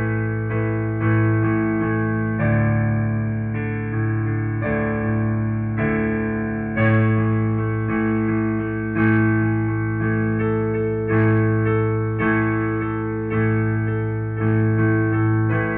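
Piano-type keyboard playing slow, sustained chords, a new chord struck about once a second and ringing down until the next.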